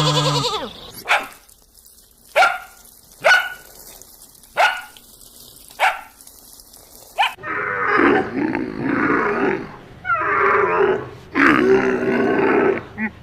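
Animal calls: a pitched bleat ends in the first half-second, followed by six short, sharp calls spaced about a second apart. About seven seconds in come three long, rough, noisy calls, each lasting one to two seconds.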